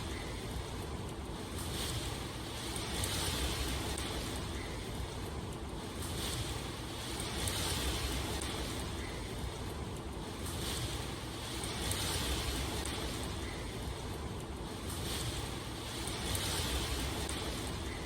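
Steady rushing water noise with a low rumble beneath it, swelling softly every second or two.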